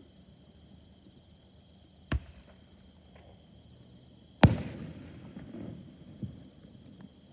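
Fireworks shells bursting overhead: a sharp bang about two seconds in, a much louder bang with a long rolling echo about halfway through, and a smaller bang near the end.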